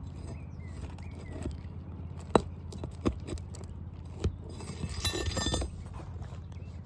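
Roofer's pry bar working under roof shingles: a few sharp metal taps and knocks, then a short rasping tear about five seconds in as a shingle is pried up off its nails. A steady low hum runs underneath.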